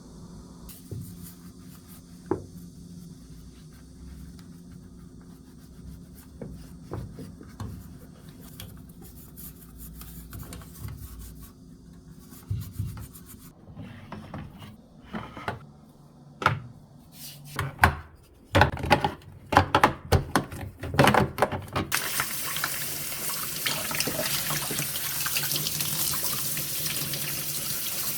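A series of knocks and clatter, then water running steadily from a tap, starting a little over two-thirds of the way in.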